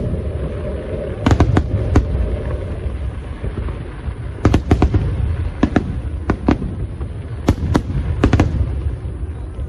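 Aerial fireworks display going off: sharp bangs in quick clusters of three or four, a cluster every second or so, over a steady low rumble of distant bursts.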